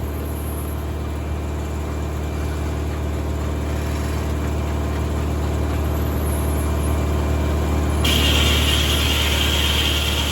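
Tractor engine running steadily, driving a 1950 Corley circular sawmill, with a steady low hum. About eight seconds in, a higher hiss joins it.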